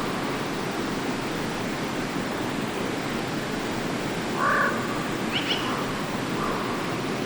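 Forest stream flowing steadily. About four and a half seconds in comes a short, harsh call from a bird or frog, followed by a few faint, higher chirps.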